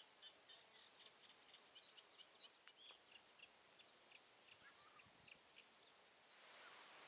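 Faint birdsong: a small songbird gives a quick run of short, high chirps for the first five seconds or so, over a steady hiss that grows louder near the end.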